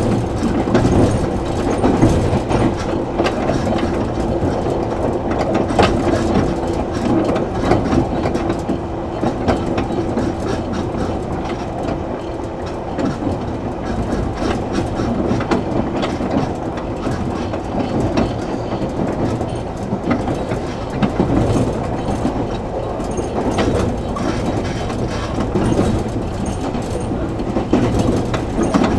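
Cabin sound inside a JR 113 series 7700 subseries electric train running at speed: a steady rumble of wheels on rail with scattered rail-joint clicks. A steady hum fades out about 13 seconds in.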